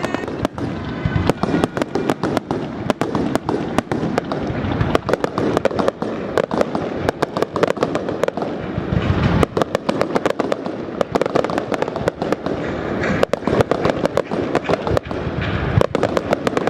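Aerial fireworks display in a dense barrage: shells bursting in rapid succession, many sharp bangs and crackles a second over a continuous din.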